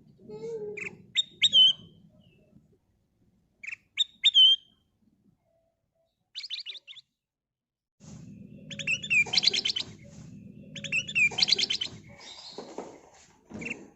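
Kutilang emas bulbul singing. Short high chirpy phrases are broken by pauses, then from about the middle a long run of fast repeated notes follows, with a low rumble underneath.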